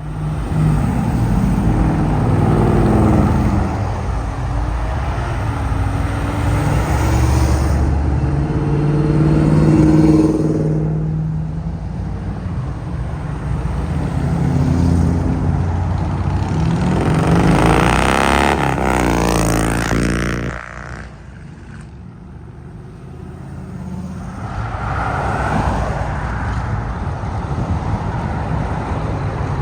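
Car engines running loudly, their revs rising and falling, with a car going past about eighteen seconds in; the sound drops off sharply a little later and then builds again.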